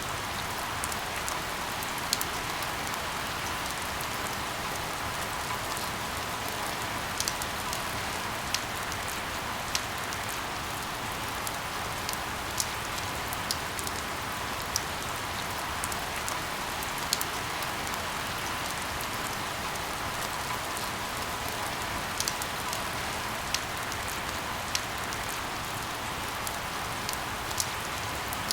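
Steady rain falling, with the sharp tick of single drops landing every second or so.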